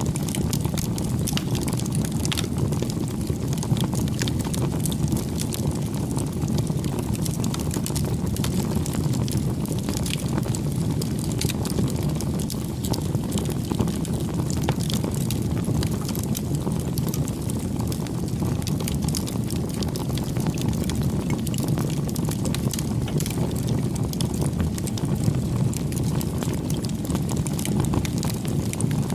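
Wood campfire burning: a steady low rush of flames with many small, irregular crackles and pops of the burning wood.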